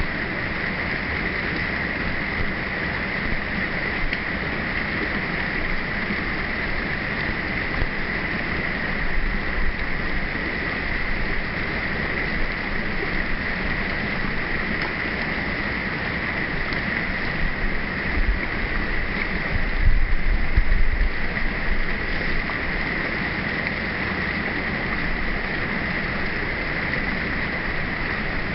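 Steady rushing of a waterfall, an even roar of falling water, with a few low rumbles of wind on the microphone, the strongest about twenty seconds in.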